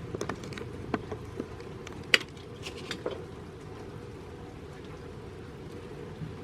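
Light rain with scattered raindrops tapping close by over a steady low wind rumble. The taps come in the first three seconds, the sharpest about two seconds in.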